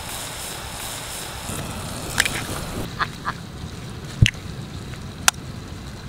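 Chopped onion, tomato and green chilli sizzling in oil in a clay pot, with a steady hiss. About three seconds in this gives way to a few sharp taps and cracks of boiled eggshells being knocked and shelled with a knife blade.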